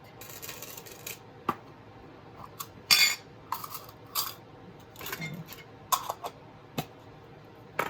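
Small metal parts clinking and rattling: chainmaille jump rings and hand tools handled on a work surface. There are several sharp clicks and short rattles, the loudest rattle about three seconds in.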